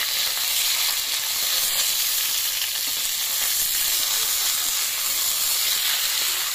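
Small whole brinjals frying in hot oil in an iron kadai, a steady sizzle, while a steel spatula stirs and turns them.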